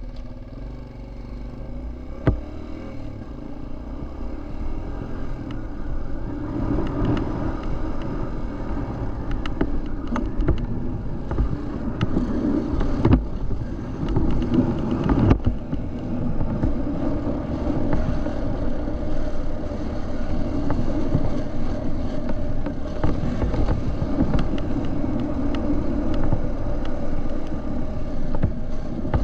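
Dirt bike engine running as the bike is ridden on a trail, its pitch rising and falling with the throttle, with a few sharp knocks along the way.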